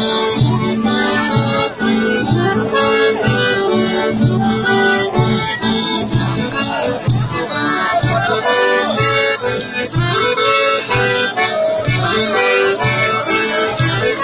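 Festa junina quadrilha music led by accordion, played with a steady, evenly spaced percussion beat.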